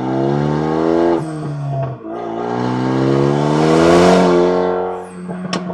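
Renault Mégane III RS's 2.0-litre turbo four-cylinder running through a modified exhaust with an extra valved pipe, revving up. The revs drop about a second in, then climb again, loudest near four seconds in, before falling away. A few sharp cracks come near the end.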